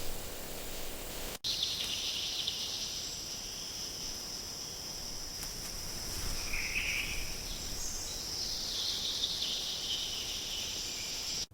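Steady, high-pitched insect chorus, cut off for an instant about a second and a half in, with a short call standing out about seven seconds in.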